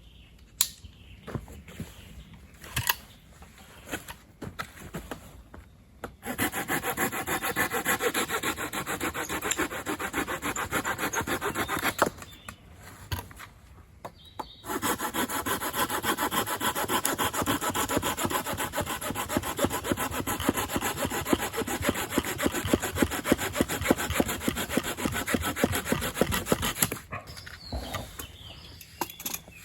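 Hand saw cutting through firewood in two long spells of quick, even back-and-forth strokes, with a short pause between them; a few light knocks of wood being handled before and after.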